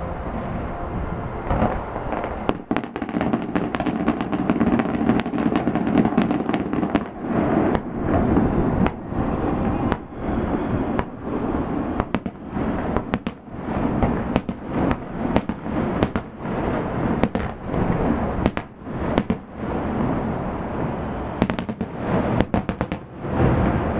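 Aerial fireworks bursting in rapid succession: many sharp bangs and crackles over a continuous rumbling boom, densest a few seconds in and again near the end.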